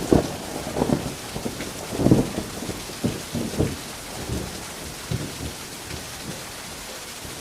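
Steady heavy rain with rumbling thunder. The rumble is loudest at the start and again about two seconds in, then dies away, leaving mostly the rain by the end.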